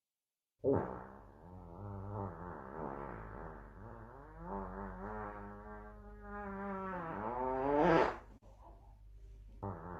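A long, wavering fart sound effect, pitched and buzzing, drawn out for several seconds and ending in a sharp rising squeal about eight seconds in, after which it drops away.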